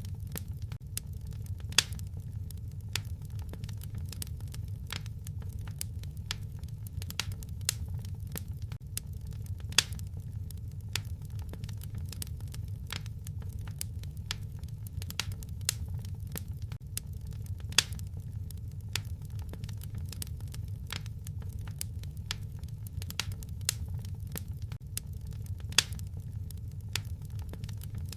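Wood fire crackling in a fireplace: a steady low rumble of burning with frequent small snaps and a louder pop about every eight seconds.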